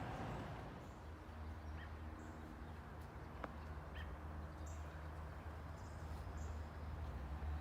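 A low steady rumble with a few faint, short bird chirps above it, and a single small click about halfway through.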